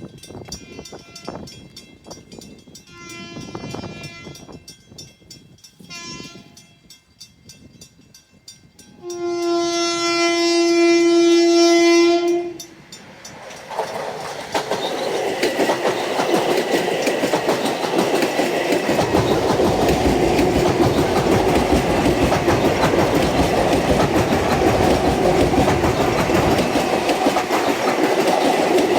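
LIRR M7 electric multiple-unit train sounding its horn in three blasts, the last one long and loudest, as it approaches a grade crossing. It then passes close by with a steady rush of wheels and rails.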